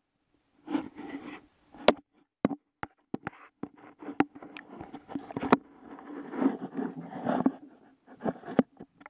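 Irregular sharp knocks and clicks mixed with rubbing and scraping: close handling noise on the kayak while a caught fish is being held and slipped back into the water.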